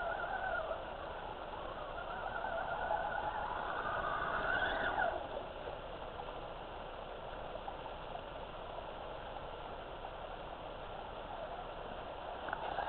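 Electric motor and geartrain of a radio-controlled rock crawler truck whining under throttle, the pitch climbing until about five seconds in, then falling away to a low steady hiss.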